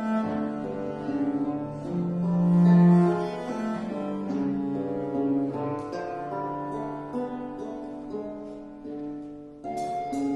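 Viola da gamba and theorbo playing a slow passage of chamber music, bowed low notes over plucked chords, swelling on a low note about two seconds in. A brighter, fuller texture enters near the end.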